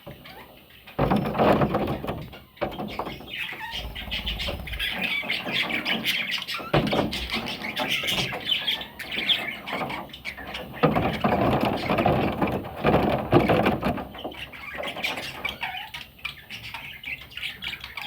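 Parrot chicks squawking and chirping, a busy run of harsh, scratchy calls that starts about a second in.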